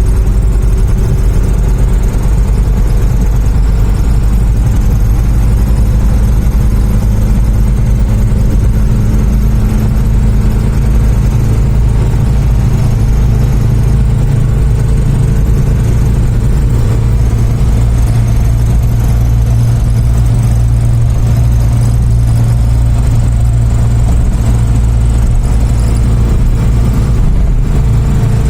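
Hindustan Ambassador's HM Stride diesel engine running steadily at speed, a loud low drone that holds one pitch, shifting slightly about halfway through and again near the end.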